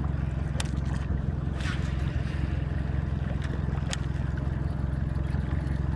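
Boat motor running steadily at low trolling speed with an even low hum, with a few light clicks over it.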